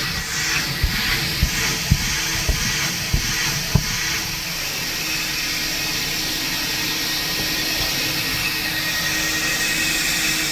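Coin-operated car wash vacuum running steadily with a rushing, hissing airflow, with a few sharp knocks in the first few seconds as the nozzle bumps about.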